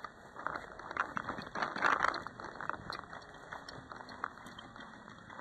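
Footsteps crunching in snow, a quick run of crunches that is loudest about two seconds in and then eases to slower, lighter steps.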